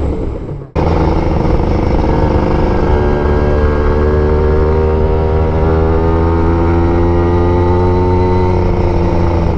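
Kawasaki Ninja 150 RR's two-stroke single-cylinder engine running under load, its pitch sagging slowly and steadily over several seconds, after a brief sharp dip in sound under a second in.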